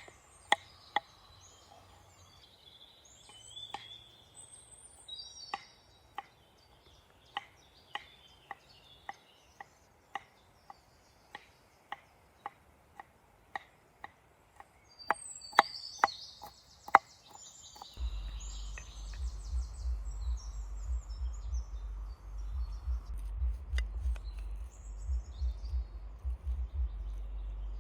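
Knife chopping on a cutting board in a steady rhythm of about two strokes a second, with birds chirping. The chopping stops about two thirds of the way in, and a low, uneven rumble takes over.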